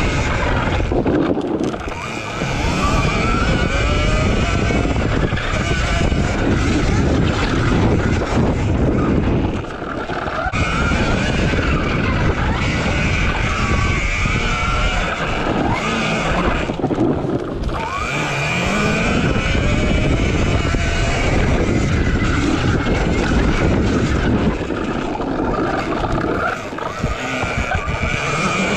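RFN SX E15 Plus electric dirt bike being ridden hard: the electric motor's whine rises and falls with the throttle under heavy wind noise on the microphone and tyre noise. It eases off briefly a few times, as on corners.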